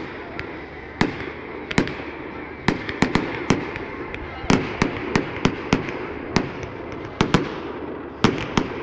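An irregular series of sharp bangs, often two or three a second and sometimes in quick clusters, over a steady background haze.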